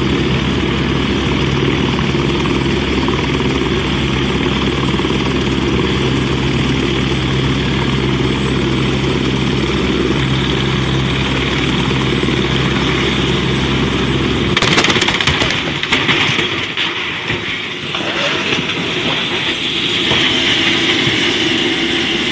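Helicopter running low and close with a steady engine-and-rotor drone, then about two-thirds of the way through a sudden burst of crashing impacts as it collides with a truck. The deep drone cuts off and a thin, high, wavering whine carries on.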